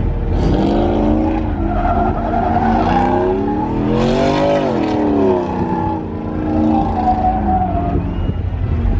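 Vehicle engine revving hard, its pitch climbing to a peak about halfway through and then falling away, over a steady low rumble.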